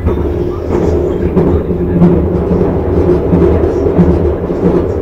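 Electric airport rail-link train running at speed, heard from inside the carriage as a loud, steady low rumble.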